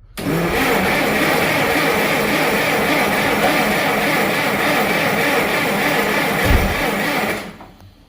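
International W-9 tractor engine being cranked over by its starter for about seven seconds without catching, then the starter is let go; a cold engine on a borrowed battery that almost starts. A low thump about six and a half seconds in.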